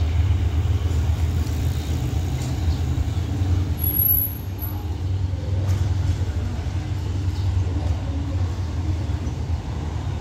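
Steady low rumble of a diesel-hauled passenger train pulling away down the line. A brief, thin, very high whistle sounds about four seconds in.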